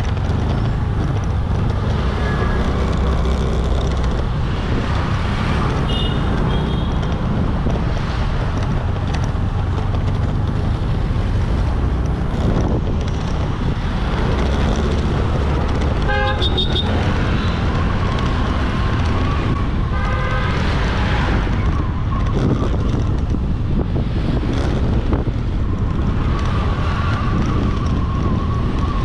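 Motorbike riding through busy road traffic: a steady low rumble of engine and road noise, with other vehicles' horns honking a few times, most clearly about two-thirds of the way in.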